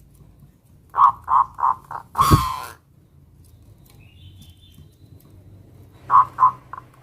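Zebra dove (perkutut) singing its cooing song: a run of four short coos, then a longer, louder final note. The song starts again near the end, and a faint high chirp comes in between.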